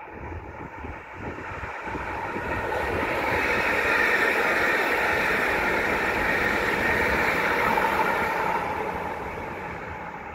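A train passing at speed: a rushing wheel-on-rail noise that builds over the first few seconds, holds at its loudest, then fades toward the end.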